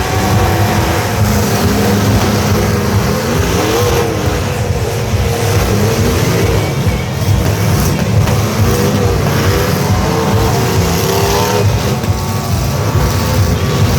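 Several demolition-derby truck engines running loudly together, their pitch repeatedly rising and falling as they rev.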